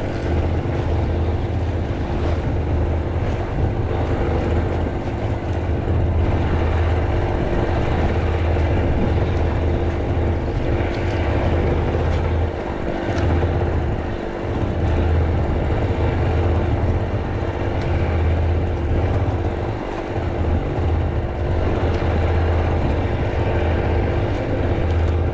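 A steady engine drone with a heavy low rumble that dips briefly a few times.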